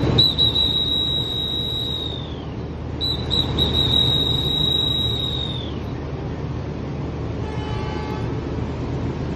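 A railway guard's hand whistle blown twice: each blast opens with a few short toots, then a long high note held for about two seconds that sags in pitch as it ends, the departure signal to the train. Steady background noise runs underneath.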